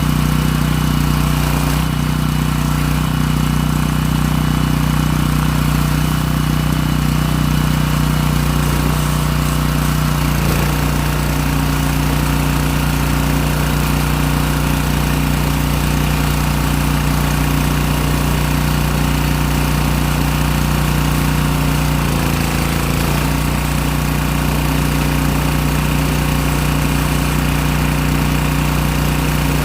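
Pressure washer's engine running steadily, with brief changes in its note about ten seconds in and again around twenty-two seconds, as the load shifts.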